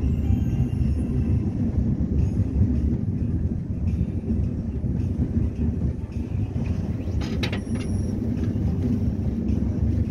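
KTX high-speed train running, a steady low rumble heard from inside the carriage, with a brief sharp click about seven and a half seconds in.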